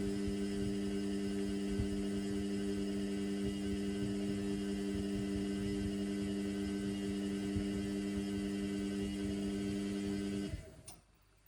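Indesit washing machine running with a steady hum, then cutting off suddenly about ten and a half seconds in.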